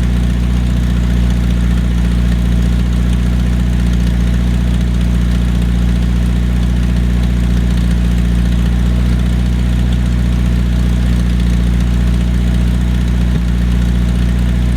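A 1982 Datsun wagon's four-cylinder engine running at a steady speed. A vacuum line is open, which the mechanic suspects is why it won't idle.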